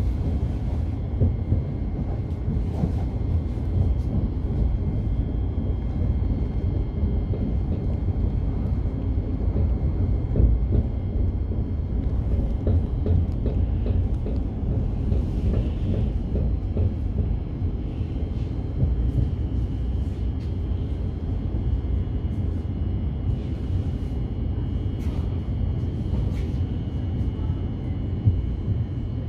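Moving passenger train heard from inside the carriage: a steady low rumble with a few short clicks and knocks from the running gear.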